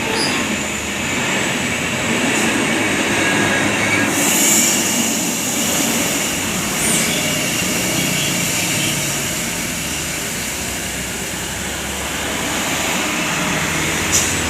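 Heavy road traffic passing close by: large trucks and buses rolling past with steady engine and tyre noise.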